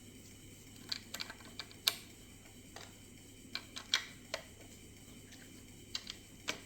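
Plastic Lego bricks clicking and clattering as they are handled, about a dozen short, sharp clicks at irregular intervals.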